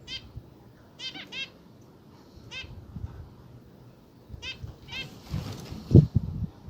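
Zebra finches giving about six short, separate calls, each call with many clear overtones. Low thumps follow near the end, the loudest about six seconds in.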